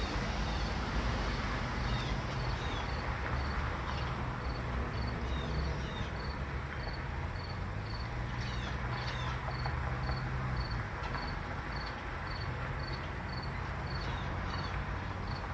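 An insect chirping steadily at a high pitch, about two chirps a second, with a few short bird chirps, over a low steady rumble.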